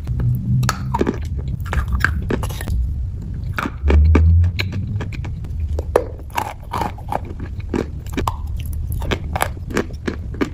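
Close-up chewing of chalk balls coated in clay paste, with many sharp, irregular crunches as the chalk breaks between the teeth. A short, loud low rumble comes about four seconds in.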